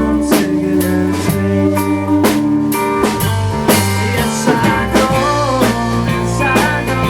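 Rock band playing an instrumental passage: a drum kit keeping a steady beat under bass and guitar, with the guitar bending notes in the second half.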